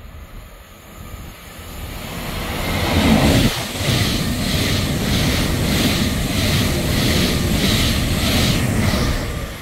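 Passenger train passing through the station at speed: a rising rush as it approaches, a falling pitch as the front goes by, then a steady rolling noise with a regular beat of about two a second as the coaches pass, fading near the end.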